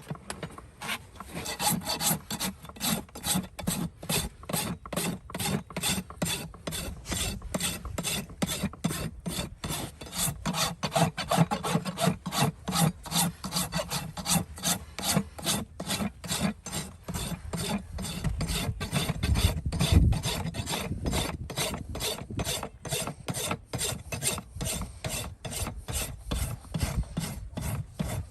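Farrier's hoof rasp filing a horse's hoof in steady back-and-forth strokes, about two to three a second. A low thump about two-thirds of the way through.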